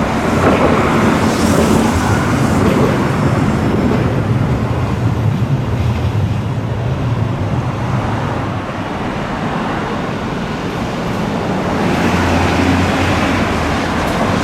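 A street tram running on street track, with the noise of road traffic around it; a low motor hum swells twice.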